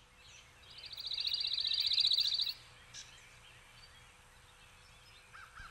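A small songbird singing a rapid, even, high-pitched trill that swells in loudness for about two seconds, then stops abruptly.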